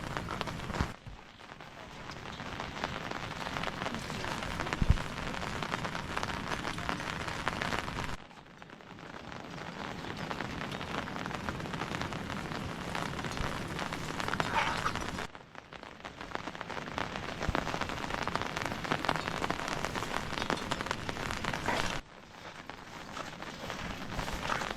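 Steady rain falling, a dense hiss of many drops. The sound cuts off abruptly and resumes at a different level about every seven seconds, and there is a single sharp knock about five seconds in.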